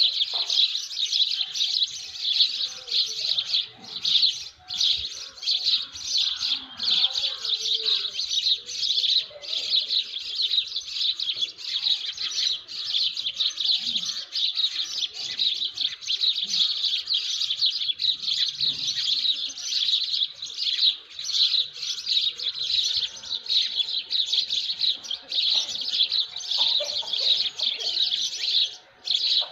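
Dawn chorus of many small birds chirping rapidly and without pause, their high calls overlapping into a dense, continuous twittering.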